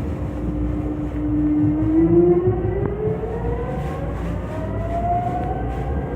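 Seoul Subway Line 5 train pulling away: the traction motors' whine holds steady, then rises smoothly in pitch as the train gains speed, over a steady rumble of the running gear.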